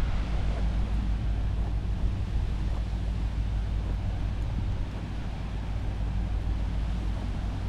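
Honda CMX250 Rebel motorcycle engine running at a steady, unchanging pitch, with some wind noise on the microphone.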